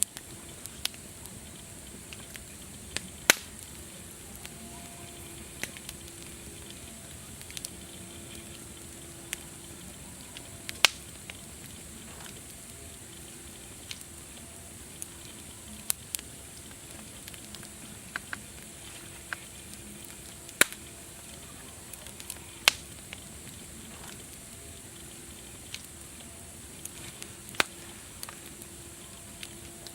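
Wood fire crackling: a steady hiss with irregular sharp pops, four of them much louder than the rest.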